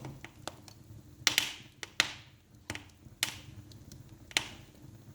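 Wood fire crackling in a fireplace: scattered sharp pops and snaps, with four louder pops that each trail off in a brief hiss.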